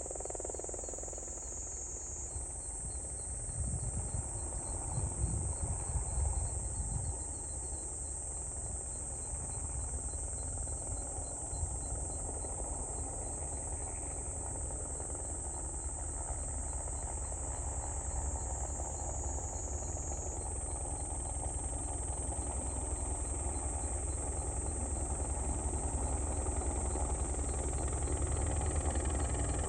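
Crop-spraying helicopter's rotor and engine, a low pulsing rumble that slowly grows louder. Insects trill high and steady throughout.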